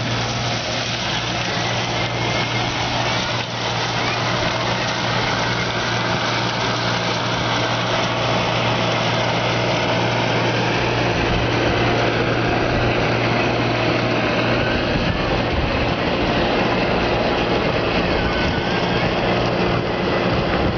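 A steady engine hum with a constant low drone and a dense background noise that holds unchanged throughout.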